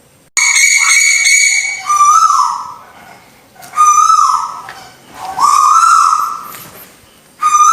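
Tuwu bird calls played as a lure recording: a series of loud whistled calls, each about a second long, a held note that slides down at the end, repeating every second or two.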